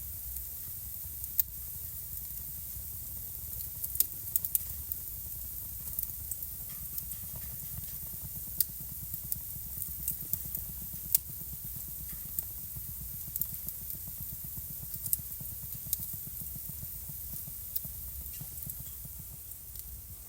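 Wood fire burning in a fireplace, crackling steadily with sharp irregular pops over a low rumble of the flames.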